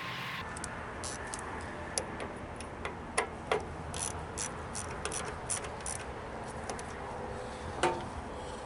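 Irregular light metallic clicks and taps, a dozen or so, from small metal parts and hand tools being handled, over a steady low hum.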